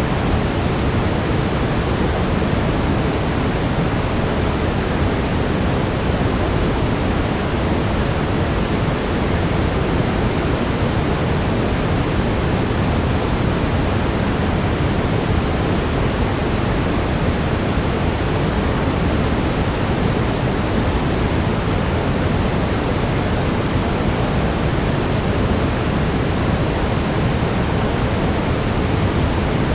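Steady brown noise: an even, unbroken rushing hiss, heaviest in the bass and thinning toward the treble, with no change in level.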